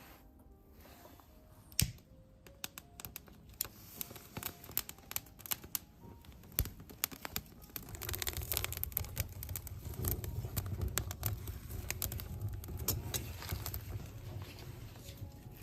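Irregular clinks and clatter, like kitchen utensils and dishes being handled, with a low steady rumble that starts about halfway through.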